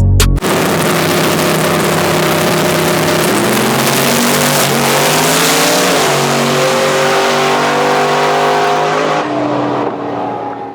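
Truck engine at full throttle under a loud rush of noise, its pitch climbing and stepping several times, then fading out near the end.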